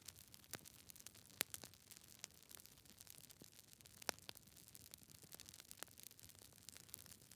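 Wood logs burning in a fireplace, crackling: irregular sharp pops and snaps over a faint hiss, with two louder pops about a second and a half and four seconds in.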